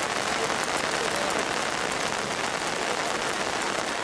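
Heavy downpour hitting umbrellas, a loud, steady, dense patter with no breaks.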